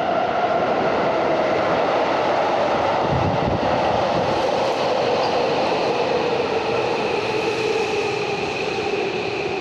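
Electric train running on the rails, with a steady rumble and a motor whine that slowly drops in pitch as the train slows. There is a brief low rumble about three seconds in.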